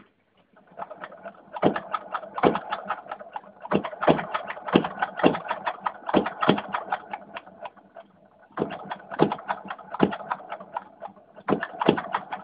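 Small Lenoir-type gas engine running: rapid clicking and popping with louder pops about every half second, easing off briefly twice.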